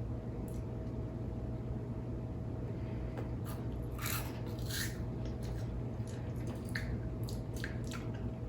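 Hot cheese fries snack chips making several short, crisp crackles, the loudest about four to five seconds in, over a steady low hum.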